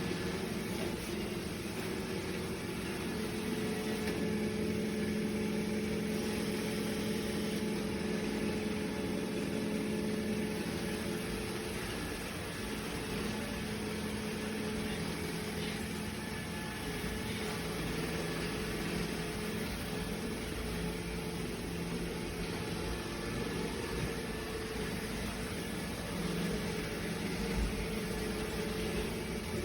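Robot vacuum running: a steady motor hum with low droning tones that rise and fall slightly in strength.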